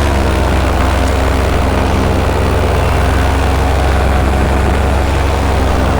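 Paramotor engine and propeller running steadily at constant throttle, a loud, even drone close to the microphone.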